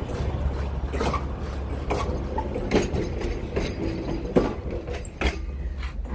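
Passenger railcar's wheels clacking over worn, sunken rail joints, one knock a little under every second, over a steady low rumble as the train rolls slowly past on rough track.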